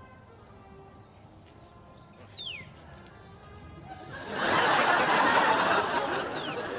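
Studio audience laughter that breaks out about four seconds in and slowly fades near the end, after a quieter stretch with faint background music and a short falling whistle-like tone.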